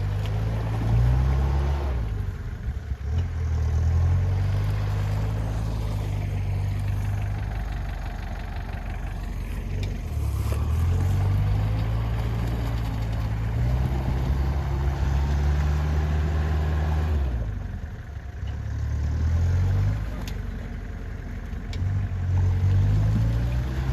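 Off-road SUV engine revving up and falling back in repeated surges, each lasting a few seconds.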